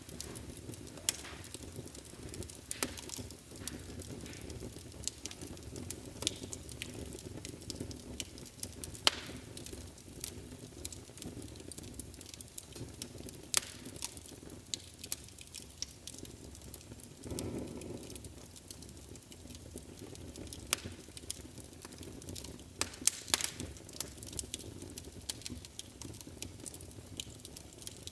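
Wood fire burning in a fireplace: irregular sharp crackles and pops over a steady low rumble of the flames, with a brief louder swell in the rumble about two-thirds of the way through.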